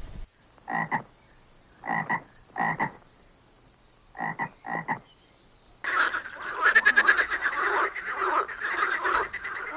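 Croaking animal calls: five short, separate croaks in the first five seconds, then from about six seconds a dense, louder run of overlapping croaks.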